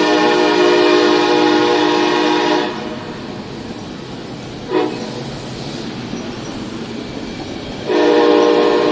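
Train air horn sounding a chord of several notes: a long blast that stops about two and a half seconds in, a short toot near five seconds, then another long blast starting near the end. The noise of the train carries on between the blasts.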